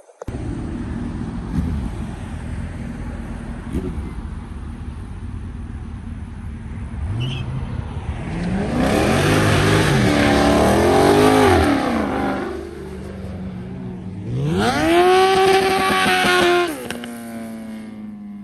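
A car engine running, then revved hard twice: first a rise and fall, then a sharp climb held high that cuts off abruptly, after which the engine note drops and fades away.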